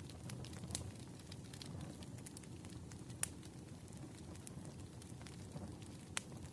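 Firewood burning in a campfire: a steady low rumble of flames with scattered sharp crackles and pops. The loudest pops come a little over three seconds in and near the end.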